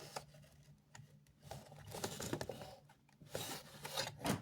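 Faint scattered clicks and rustles of a hard vinyl toy figure and its cardboard window box being handled, with a few louder bumps near the end.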